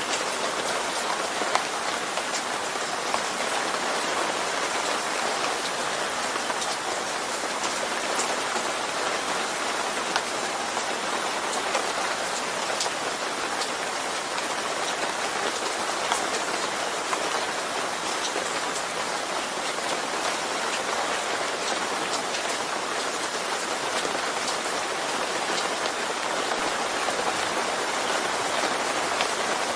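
Steady rain falling on a surface, an even hiss of drops with scattered sharper drip ticks.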